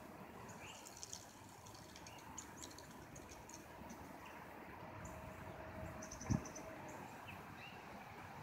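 Faint outdoor ambience with scattered short, high-pitched bird chirps, and one dull thump about six seconds in.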